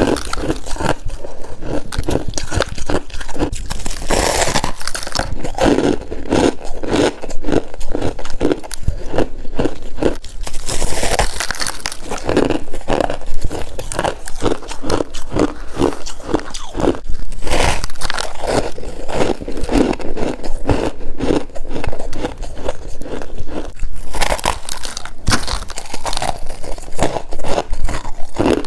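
Close-up crunching and chewing of freezer frost: a steady run of crisp bites and chews, with a few louder crunches along the way.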